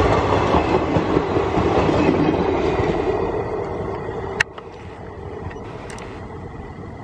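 Passenger train coaches passing close by, the wheels clattering and rumbling over the rails, fading as the last coach goes by. About four and a half seconds in, a sharp click and the sound drops abruptly to a much quieter rumble.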